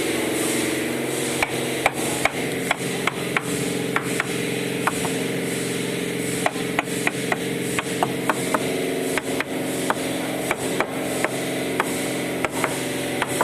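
Irregular sharp taps, two or three a second, from bricklaying: a mason's trowel knocking bricks into place on an oven's brickwork. A steady engine hum runs underneath.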